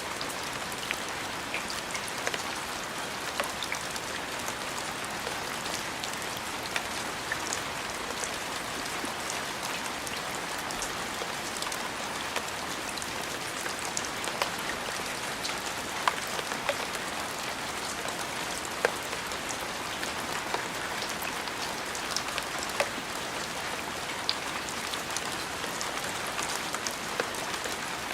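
Steady rain falling on a surface, a dense even hiss with scattered louder individual drops ticking through it.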